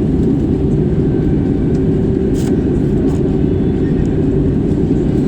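Steady low rumble of a Wizz Air jet airliner, unchanging in level, with a faint click about halfway through.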